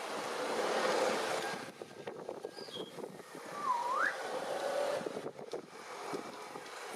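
Grey parrot whistling: a short high whistle stepping down in pitch about two and a half seconds in, then a clear whistle that dips and sweeps sharply upward about a second later, over a steady noisy background.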